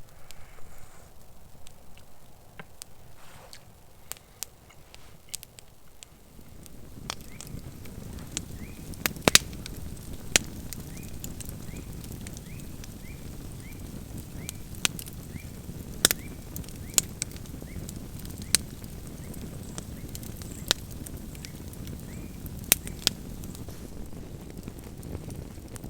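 Campfire crackling with scattered sharp pops, joined about six seconds in by a steady rushing noise.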